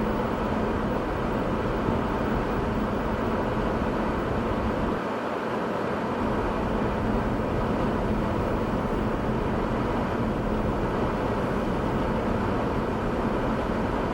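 Steady vehicle noise mixed with wind: a constant rumbling hiss with a low hum running through it.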